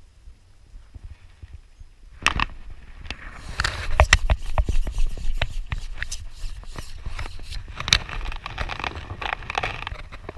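Close handling noise: a quick, irregular run of clicks, taps and rustling scrapes, starting about two seconds in.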